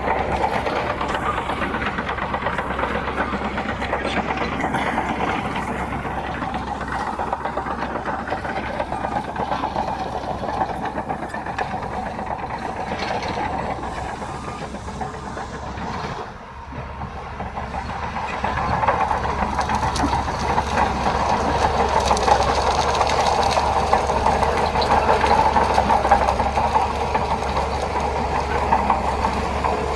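Bulldozer's diesel engine working steadily, with a fast clatter like steel tracks running. The sound drops briefly a little past halfway, then comes back louder.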